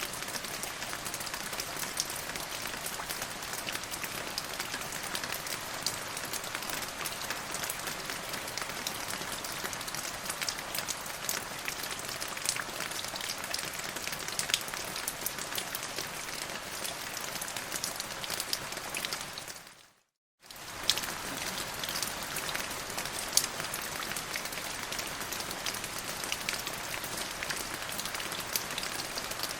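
Steady rain falling, a dense hiss with many individual drops ticking through it. About two-thirds of the way in it fades out to silence for a moment and comes straight back.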